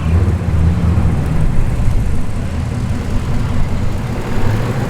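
Engines of several cammed muscle cars idling and creeping forward at low speed, a steady deep, lumpy exhaust rumble; the uneven idle is the sign of aggressive camshafts.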